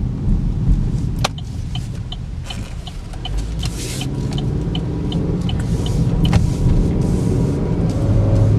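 Cabin noise of a 2013 Chevy Equinox with a 2.4-litre four-cylinder engine on the move: a steady rumble of engine and tyres that grows louder toward the end. A run of light, evenly spaced ticks sounds in the middle.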